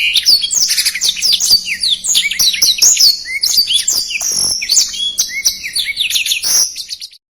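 Black-throated canary (blackthroat) singing a fast, tightly packed song of rapid high sweeping notes, which stops abruptly near the end.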